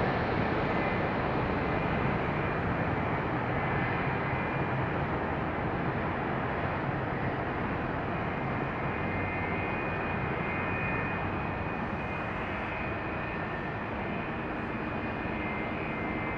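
Jet engines of a heavy airliner landing: a steady rumble with a thin high whine, slowly fading.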